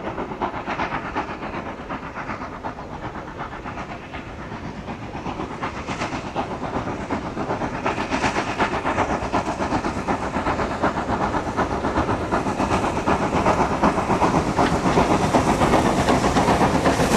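Two steam locomotives double-heading a train up a steep 1-in-49 gradient, their exhaust beats coming hard and fast as they work under load, growing steadily louder as the train approaches.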